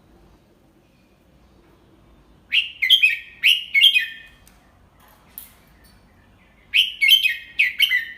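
Red-whiskered bulbul singing: two quick phrases of several clear notes, the first about two and a half seconds in and the second near the end.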